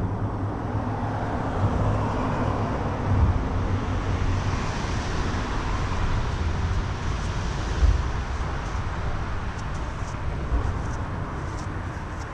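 Steady rushing rumble of road traffic from the highway near the put-in, with a few low bumps.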